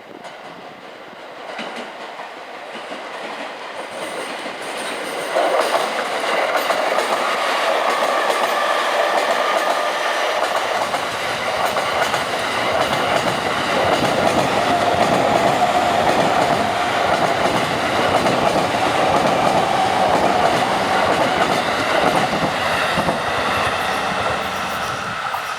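E233-series electric commuter train passing over a set of points, its wheels clattering on the rail joints and switch. It grows louder over the first five seconds, runs steadily, and begins to fade near the end.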